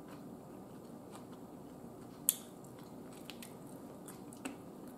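Close-miked chewing of barbecue rib meat, faint and wet, with a few small mouth clicks and one sharp click about two seconds in.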